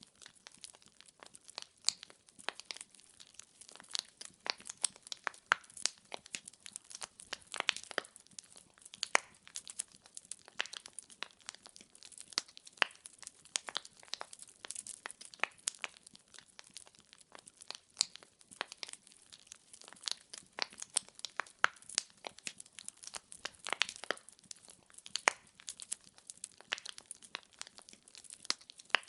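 Wood fire in a fireplace crackling, with dense, irregular pops and snaps of burning firewood over a faint hiss.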